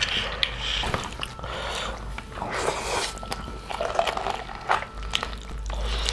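Two people eating braised pig's feet and rice with their hands: irregular chewing and biting with short mouth clicks.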